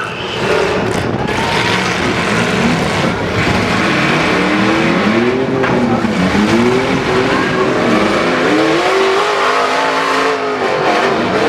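Demolition derby trucks' engines revving up and falling back again and again, several at once, over a constant rumble.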